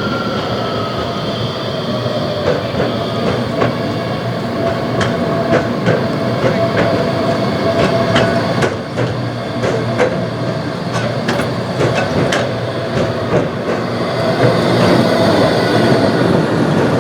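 A tram running on rails, with a steady wheel squeal and many sharp clicks from the wheels on the track.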